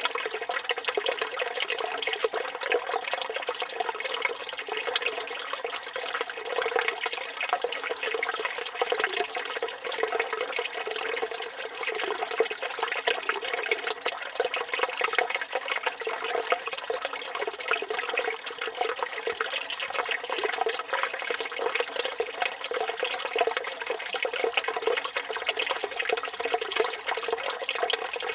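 Water from a village fountain's spout running steadily and splashing into its basin.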